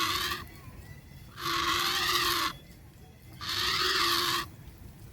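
An animal giving a loud, harsh, wavering call about a second long, repeated every two seconds or so.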